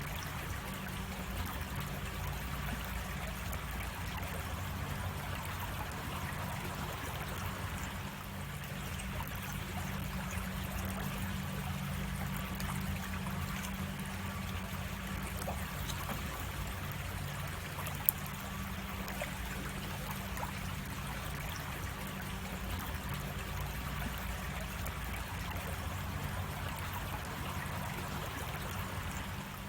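Creek water running over a cascade, a steady rushing and trickling, with a low rumble beneath it. A single sharp click sounds once, about two-thirds of the way through.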